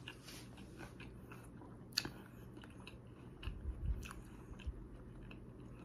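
Faint chewing and small wet mouth clicks from eating salad by hand, with a sharper click about two seconds in and a soft low thump near four seconds.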